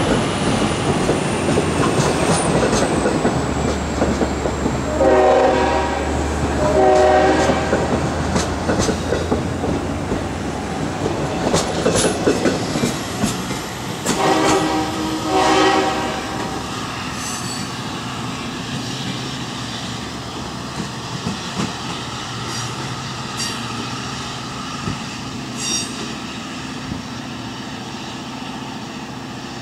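Diesel-hauled bilevel commuter train rolling past and pulling away, wheels clacking over rail joints, its rumble fading as it recedes. The lead EMD DE30AC locomotive sounds its horn up ahead, four blasts in two pairs, about five and fourteen seconds in.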